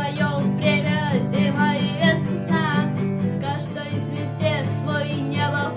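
Sire A3 six-string acoustic guitar strummed steadily, with a voice singing a melody over it.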